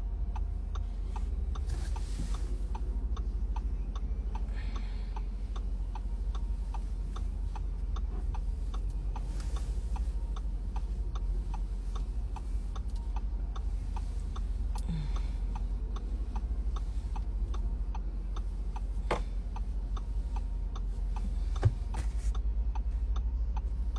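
Steady, evenly spaced ticking, about two ticks a second, over a low steady hum, with a couple of sharper single clicks late on.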